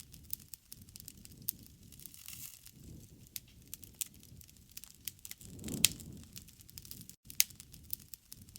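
Wood fire burning, with irregular sharp crackles and pops over a low, swelling rumble of the flames.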